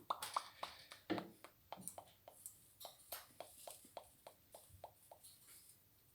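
A faint string of short, sharp clicks and taps, about three or four a second, some with a brief squeaky edge.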